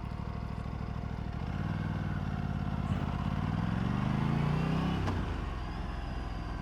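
Aprilia RS 457's parallel-twin engine idling, then rising steadily in pitch as the bike pulls away from a stop, and dropping back about five seconds in.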